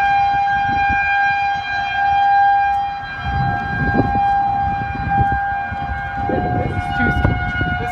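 Outdoor civil-defense warning siren sounding a steady tone for a tornado warning. Its pitch dips slightly near the end. Wind gusts rumble on the microphone underneath.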